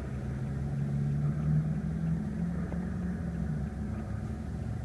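2014 BMW 328i's 2-litre turbocharged inline four-cylinder idling with a steady low hum.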